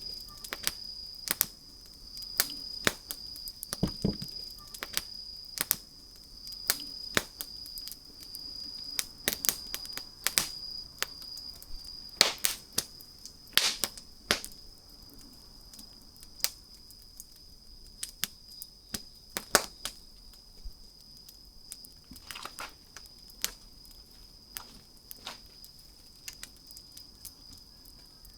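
Wood fire crackling: irregular sharp pops and snaps of varying loudness over a soft hiss, with a faint steady high-pitched tone underneath.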